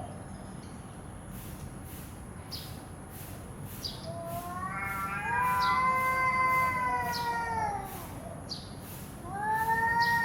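A cat yowling: a long drawn-out call that rises and falls over about four seconds, then a second call starting near the end.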